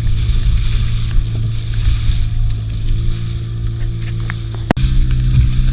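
A fishing boat's engine running steadily, a low hum with a hiss over it. It breaks off for an instant near the end and then carries on with a steadier tone.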